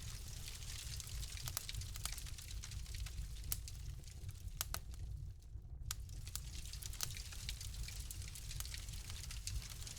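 Wood fire crackling, with sharp pops scattered irregularly over a steady low rumble and hiss.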